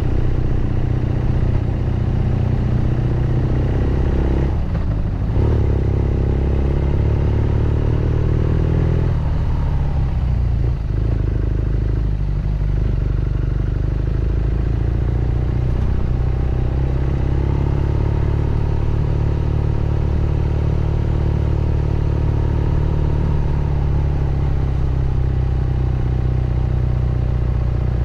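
BMW R nineT Scrambler's air/oil-cooled boxer-twin engine and exhaust under way on a steep, winding climb. The engine note dips briefly a couple of times in the first half as the throttle comes off, then rises and holds higher before easing back down near the end.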